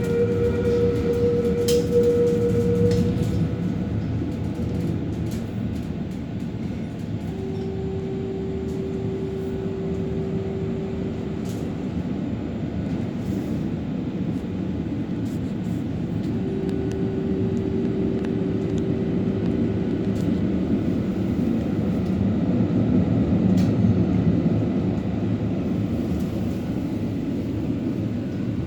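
Helsinki city tram running along its rails: a continuous low rolling rumble, with a steady hum that comes in for a few seconds twice and scattered light clicks.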